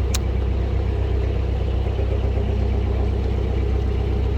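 Boat engine running steadily at cruising speed, a constant low hum.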